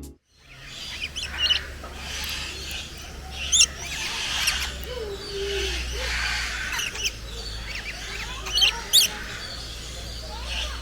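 Birds calling with short, sharp chirps and squawks, loudest twice (around three and a half and nine seconds in), over a steady low hum of background noise.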